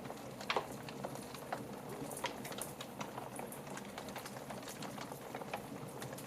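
Wood fire crackling in a fireplace: a steady hiss with scattered pops and snaps, the sharpest about half a second in.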